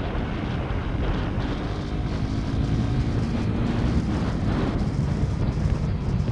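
Motorcycle engine running while riding, with heavy wind rumble on the microphone.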